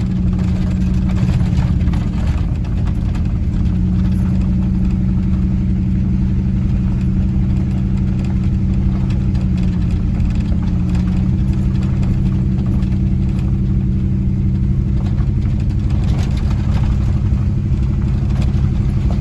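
Four-wheel-drive truck's engine running steadily at low speed on an uphill road, heard from inside the cab with tyre and road noise; the engine note shifts slightly a couple of times.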